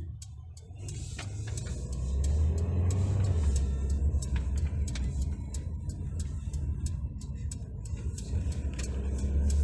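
Mercedes-Benz GLA 200 driving: a steady low rumble of engine and road that grows louder about two seconds in.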